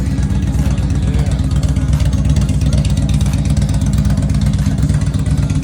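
Indian Challenger Dark Horse's V-twin engine idling steadily through an aftermarket exhaust, just after a hard start.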